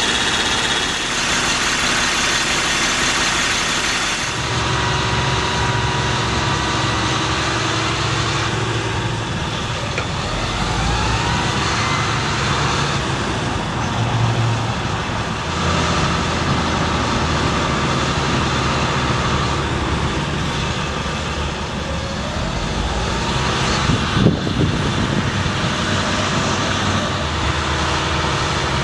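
Ford F750 bucket truck's engine running steadily, its note shifting a couple of times, with two faint rising whines and a short knock near the end.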